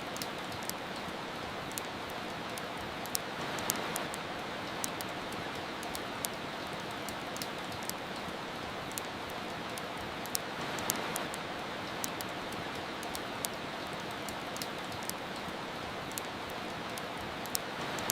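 Steady rain hiss with the irregular sharp crackles and pops of a wood fire, roughly one or two a second. The rain swells briefly twice.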